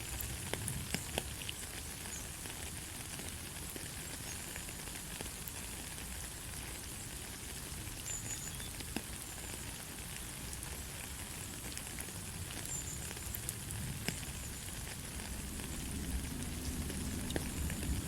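Gentle rain falling steadily, with scattered sharp drip ticks. A low rumble builds near the end.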